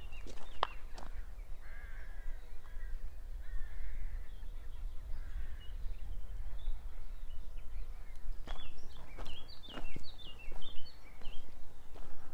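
Wild birds calling: a few hoarse calls in the first few seconds, then a quick run of high chirping notes near the end, over a steady low rumble.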